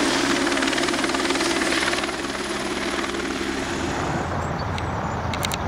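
Helicopter flying frost-protection duty over a vineyard: a steady rotor beat with engine noise, stirring the cold air so it rises above freezing. The sound shifts lower and duller about two seconds in.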